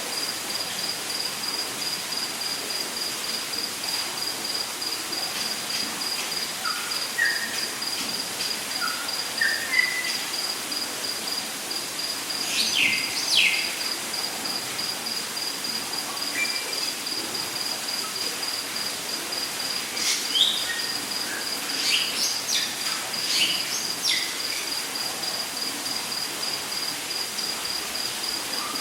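Rainforest ambience: an insect's steady, rapidly pulsing high trill runs under a constant hiss of a waterfall. Birds call over it: a few short notes stepping up in pitch, then quick falling whistles twice, around the middle and again later.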